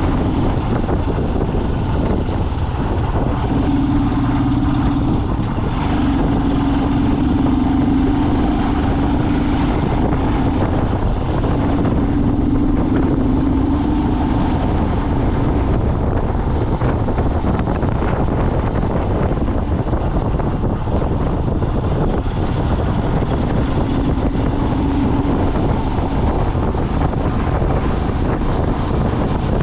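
A vehicle driving: steady engine and road noise, with a low hum that comes in for a few seconds at a time from about four seconds in and again near the end.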